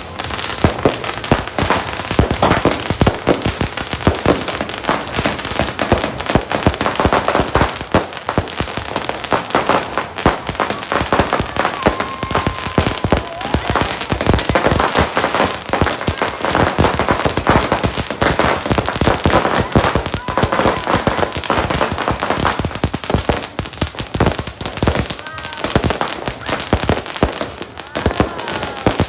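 A 100-shot "Lightning Thunder" fireworks cake firing: a fast, unbroken string of sharp bangs and crackling that keeps going without a pause.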